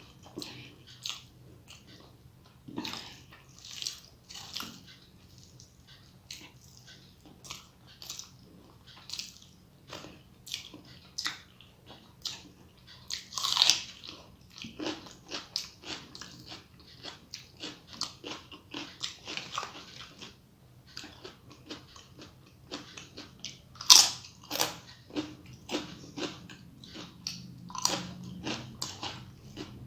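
Close-up eating sounds: a person chewing and biting a rice meal, with many short, irregular mouth clicks and crisp crunches. Two louder crunches come about a third of the way in and about four-fifths of the way in.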